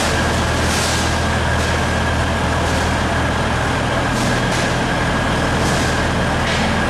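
Passenger train noise heard inside the coach: a steady low rumble with a thin steady high tone, and several short hissing surges.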